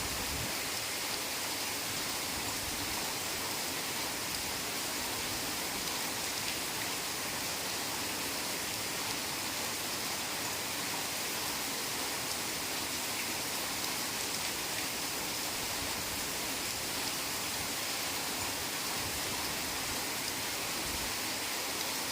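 Heavy rain falling steadily, an even hiss with no single drops or other events standing out.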